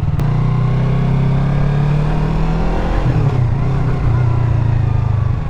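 Yamaha MT-03's parallel-twin engine running as the motorcycle rides along; its note dips about three seconds in, then holds steady.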